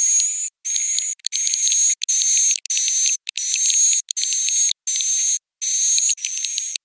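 Swiftlet calls from a roosting-lure recording used in swiftlet farming: a run of high, buzzy chirps, each about half a second long with a slightly rising whistle-like tone, repeating with short gaps about one and a half times a second.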